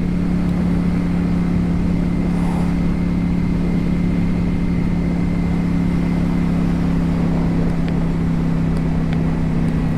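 Ducati Streetfighter V4 S's V4 engine running at a steady cruise, its pitch holding even, over a low rush of wind noise.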